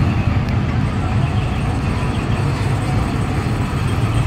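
Car engines running with a steady low rumble as vehicles roll slowly.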